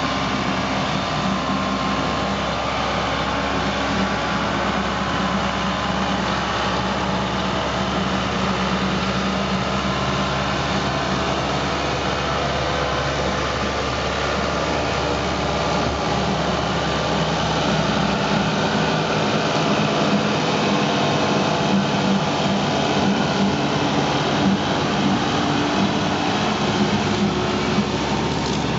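Tractor engine running steadily while slashing grass, with a continuous hum and the noise of the slasher; a little louder in the second half.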